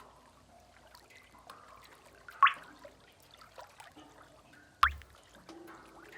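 Cave water drips: two loud, sharp plinks about two and a half seconds apart, over faint trickling and small drops of water.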